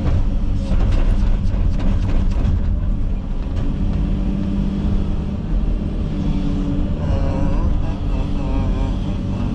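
Komatsu 360 excavator's diesel engine running steadily under work, with scattered cracks and knocks in the first few seconds and a wavering whine near the end.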